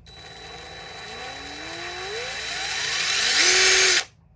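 DeWalt DCF885 cordless impact driver's brushed motor running free, with no impacting. The trigger is squeezed gradually, so the whine rises steadily in pitch and loudness, holds briefly at full speed, then stops sharply when the trigger is released. The motor has just been brushed out and runs noticeably better at low speed.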